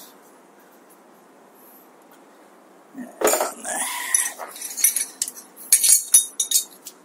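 Quiet at first, then from about three seconds in, metal tools and bike parts clinking and clattering as they are handled, with a brief wavering squeak near the start of the handling.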